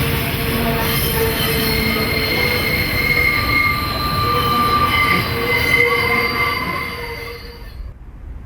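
Freight train rolling past with its wagon wheels squealing: several steady, wavering high-pitched tones over a low rumble. The squeal and the higher sounds cut off abruptly near the end, leaving a quieter rumble.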